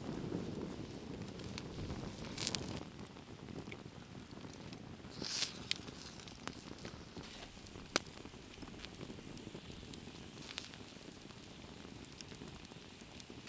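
Wood fire crackling: a low steady rush broken by scattered sharp pops.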